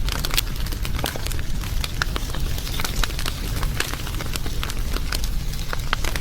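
Wood fire crackling: many sharp, irregular pops and snaps over a steady low rumble of the burning fire.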